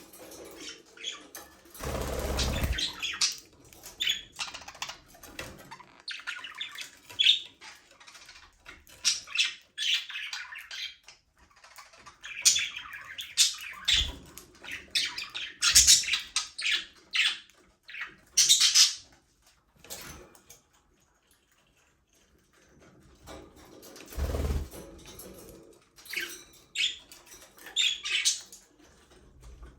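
A flock of budgerigars chirping and chattering with short squawks, joined by a few low thuds and flutters; the chatter drops away to near quiet about two-thirds through, then resumes.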